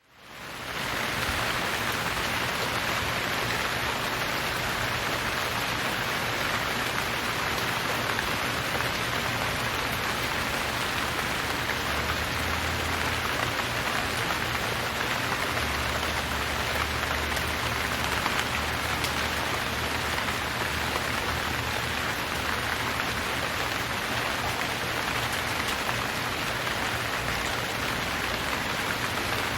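Steady rain falling on a surface, from a prerecorded rain sound effect rather than the storm itself, fading in over the first second.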